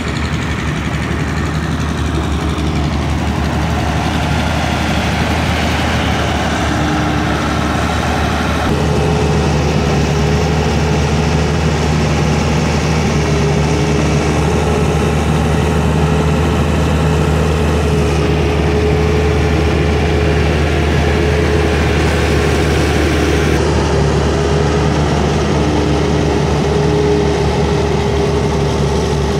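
Diesel engine of a Sany SR150C rotary drilling rig running steadily, with a constant low hum and a steady whine above it. It gets louder about nine seconds in.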